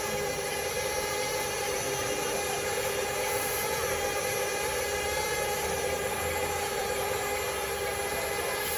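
Small electric motors and plastic gearing of RC toy construction vehicles whining steadily.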